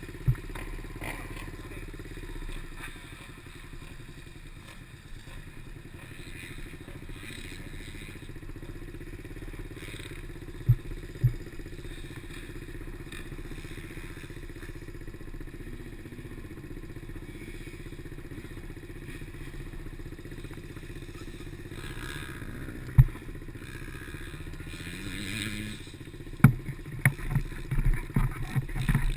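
Small Chinese PY90 pit bike engine running at fairly steady low revs, rising briefly near the end. Occasional sharp knocks sound over it, with a flurry of thumps and knocks in the last few seconds.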